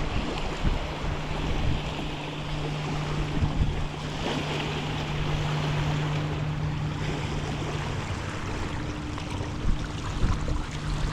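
Strong, gusty wind buffeting the microphone, with a steady low hum underneath.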